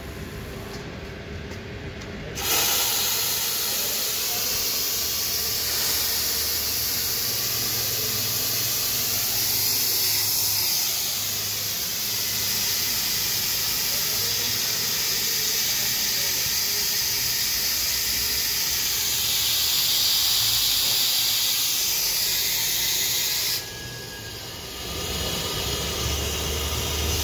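Steam wand of a La Spaziale S2 espresso machine hissing steadily for about twenty seconds, starting abruptly a couple of seconds in and cutting off sharply near the end.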